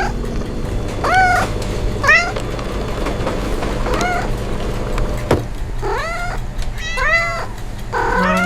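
A cat meowing repeatedly: a string of short, arching meows, about six or seven, coming in ones and quick pairs.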